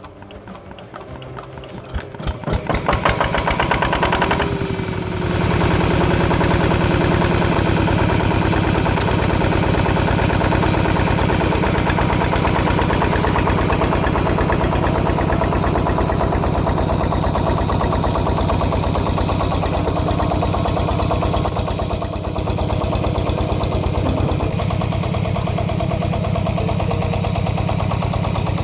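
Two-wheeled power tiller's single-cylinder diesel engine being cranked after standing unused since summer: its beats speed up over the first few seconds until it catches, falter briefly about five seconds in, then settle into steady running with a rapid chugging beat.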